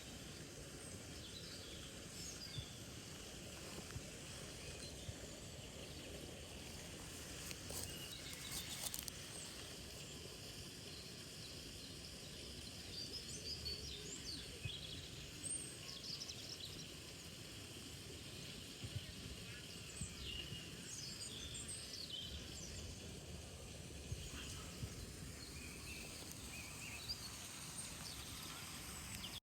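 Steady background hiss of outdoor ambience with small birds chirping here and there, and a brief scratchy noise about eight seconds in.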